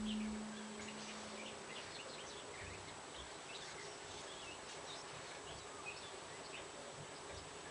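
Faint birds chirping in the background, many short high chirps. A low hum fades out in the first two seconds.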